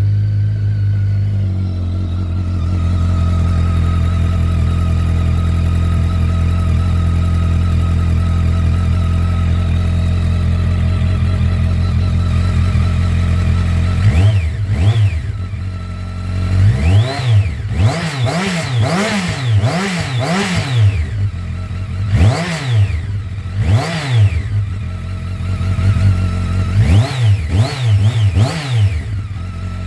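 BMW K1200R inline-four engine breathing through a K1300R exhaust, idling steadily for about fourteen seconds. Then a long run of quick throttle blips follows, each revving up and dropping back to idle.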